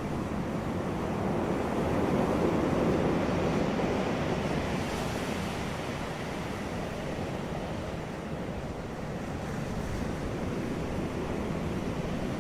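Sea waves breaking on a beach, a steady wash of surf that swells about two seconds in and then eases back.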